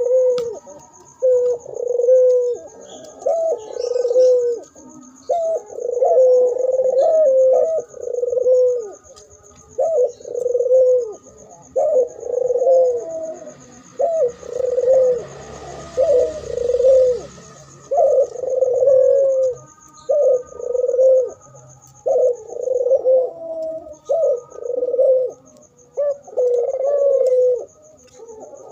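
Several doves cooing, their low coos repeating and overlapping with hardly a pause, over a faint steady high-pitched whine.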